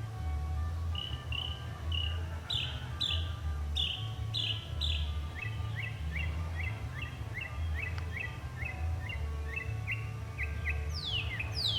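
Northern mockingbird singing, each phrase repeated several times before it switches to the next: a run of short high notes, then a long series of down-slurred notes at about two a second, then steep falling whistles near the end. A low rumble runs underneath.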